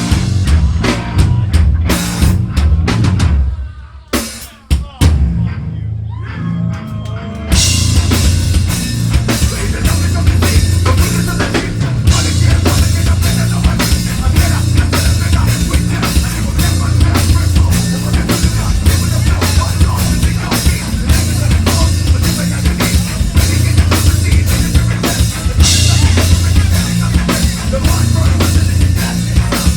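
Live heavy metal band playing loud, with pounding drum kit, bass and distorted guitars. About three seconds in the band drops to a short break of scattered drum hits and a few bent guitar notes, then crashes back in at full force about seven seconds in.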